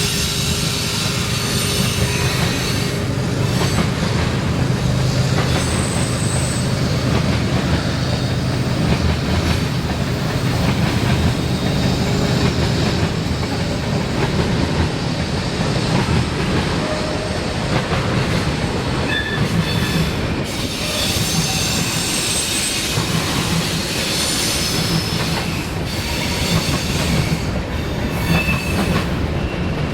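Freight train cars rolling past at close range: a steady rumble of wheels on rail, with short high wheel squeals now and then.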